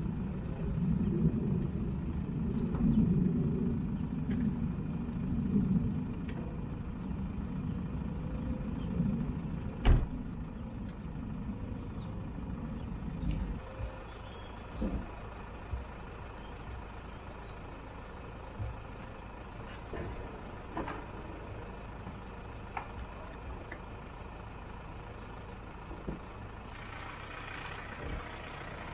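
Recovery truck running with a low rumble that drops away after about thirteen seconds, followed by scattered metal clanks and knocks; a sharp heavy clunk comes about ten seconds in.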